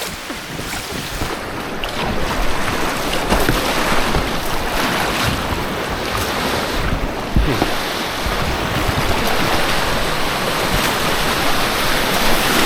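Rushing white water around a kayak on a whitewater course, with wind buffeting the microphone; the rush grows louder toward the end.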